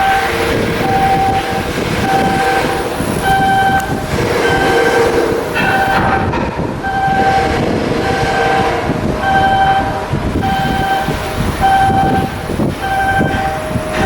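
Electronic warning beeper sounding a steady, evenly spaced beep about once a second over continuous machinery noise and a steady lower hum.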